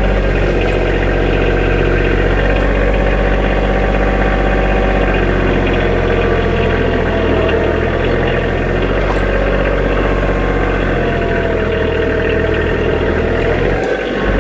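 Compact diesel tractor engine running steadily, heard close up, with a fainter whine that wavers in pitch over its steady low drone.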